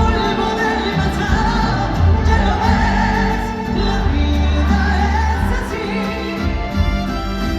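Live concert performance of a Latin ballad: a singer carrying the melody over a band, with steady bass and sustained chords.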